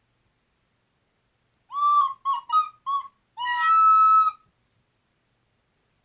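Recorder playing a short phrase: four quick notes, then a longer held note, starting a little under two seconds in.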